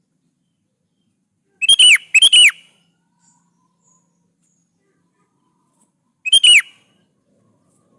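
Sooty-headed bulbul (kutilang) calling in short phrases of falling whistled notes: two phrases close together about two seconds in, and a third about six seconds in.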